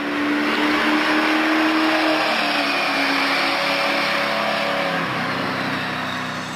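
A car engine held at high revs under a loud rushing noise, its pitch stepping down slightly twice.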